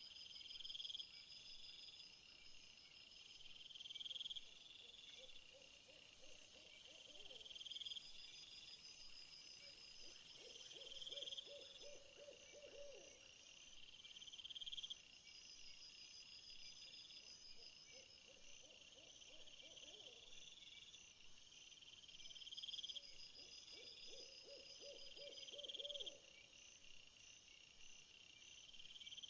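Faint night-time nature ambience: insects chirping in short repeated calls every couple of seconds, with a high buzz for several seconds in the first half. Four times a low trilled call sounds, a few seconds long each.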